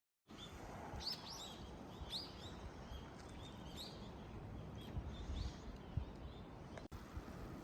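Small birds calling outdoors: short, quick chirps, several in the first five seconds or so, over a steady low outdoor rumble.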